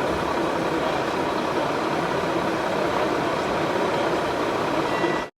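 Steady, dense engine-like din of the kind PANN files as trucks, cutting off abruptly about five seconds in.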